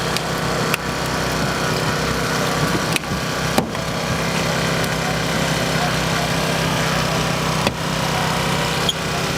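Small engine running steadily at a constant speed, with a few sharp knocks and clanks.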